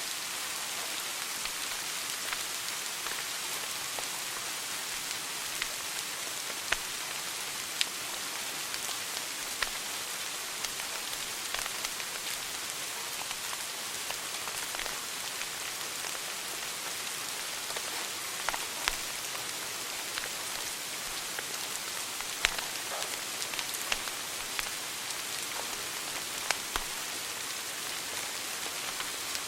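Wood fire in a fireplace crackling: a steady hiss with sharp pops and snaps at irregular moments, a dozen or so through the stretch.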